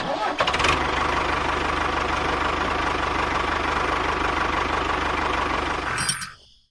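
Small engine running steadily at a constant speed with a fast, even chugging pulse, cutting out about six seconds in.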